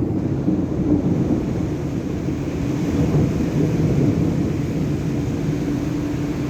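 Thunder rumbling low and steadily, a long rolling growl with little high sound above it.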